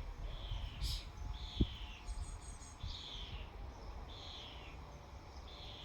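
A bird calling over and over, a short, slightly falling note about once a second, with a single short knock about a second and a half in.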